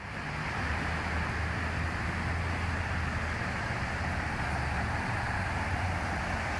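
Steady ambient rumble and hiss with a low hum underneath, fading in quickly at the start and then holding even.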